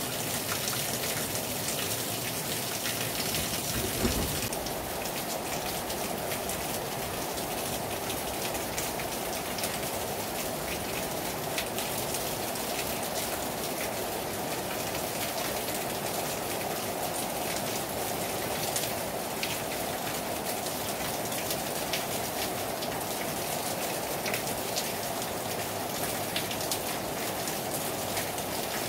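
Heavy rain falling hard on a terrace: a steady, even hiss with scattered drips landing close by. There is a single low thump about four seconds in.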